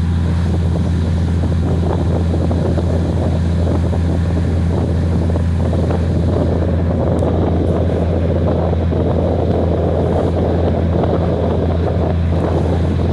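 Diesel-hauled passenger train running steadily: a constant low engine drone under rushing wind and running noise, the rushing growing stronger about halfway through.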